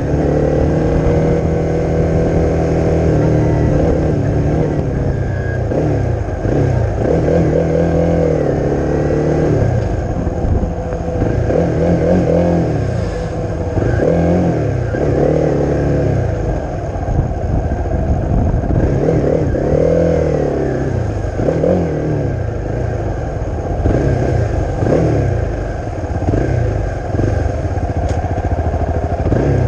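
Honda CRF250's single-cylinder four-stroke engine through a Leo Vince aftermarket exhaust while riding. The engine note climbs and drops again and again as the throttle is opened and closed, about a dozen times.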